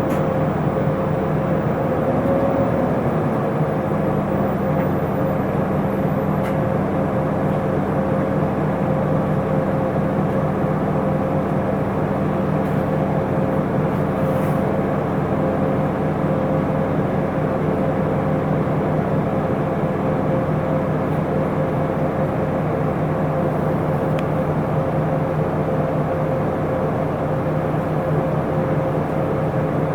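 Inside an Isuzu Erga city bus on the move: the diesel engine and drivetrain drone steadily under a constant mid-pitched whine. About two seconds in the engine note briefly swells and falls back.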